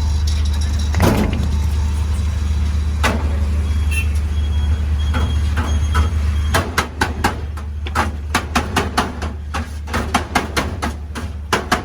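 A steady low engine hum with a couple of single knocks. About six and a half seconds in, the hum drops away and a fast, uneven run of sharp knocks and clatters takes over, like utensils striking metal.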